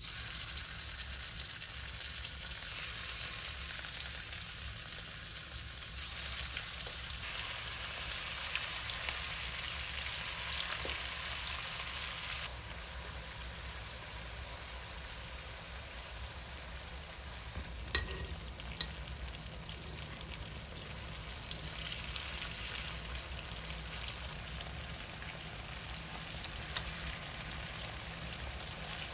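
Food sizzling in a hot pan: a steady frying hiss, a little quieter from about halfway through, with two sharp clicks close together later on.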